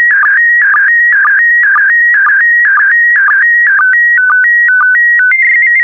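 PD120 slow-scan TV (SSTV) signal: a loud electronic warbling tone between about 1.5 and 2.3 kHz, with a sync pulse dipping lower about twice a second as each pair of image lines is sent. Near the end of the image it changes to slower alternating steps between two tones and settles on a steady higher tone, marking the end of the transmission.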